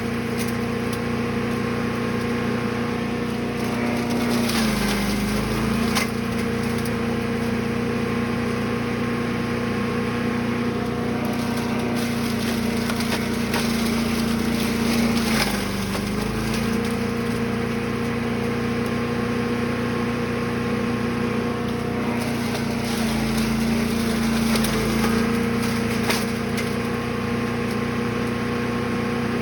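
Brush Master 3-in-1 chipper/shredder's small gasoline engine running at steady high speed while wood is fed through, with cracking and splintering from the cutters. The engine note sags briefly a few times as it bogs under load, then recovers.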